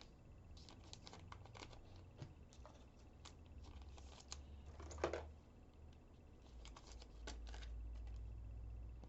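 Faint, scattered ticks and plastic rustles of trading cards being handled and slid into sleeves, with a slightly louder click about halfway through, over a low steady hum.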